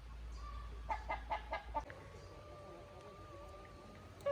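Chickens clucking: a quick run of short clucks about a second in, then a thin, steady drawn-out call.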